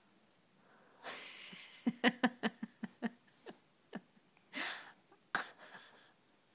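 A person's voice: a breathy huff, then a quick run of short voiced syllables around the word "cat", a few single syllables and another breathy burst.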